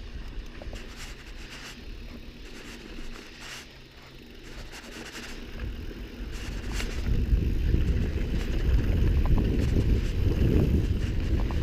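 Footsteps and a mountain bike's tyres crunching on a dirt trail as the bike is pushed uphill, with a few light clicks. From about six seconds in, a loud low rumble builds and stays.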